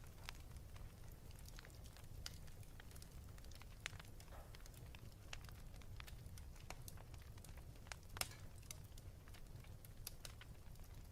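Wood fire crackling in a fireplace: irregular sharp pops and snaps over a faint, steady low rumble, with the sharpest pops about four and eight seconds in.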